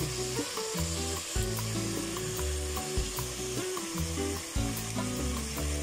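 Chicken pieces and dry macaroni sizzling in a pot, a steady hiss with small crackles. Music with low, held notes plays underneath.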